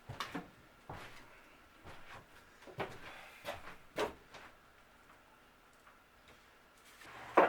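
Scattered light clicks and taps from handling wood pieces and tools on the workbench, with one sharper, louder knock near the end.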